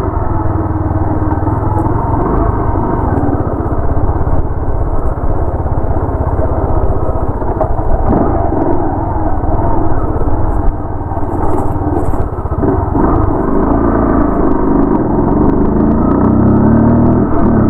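Motorcycle engine running steadily while riding, heard through a helmet-mounted mic along with rushing wind and road noise.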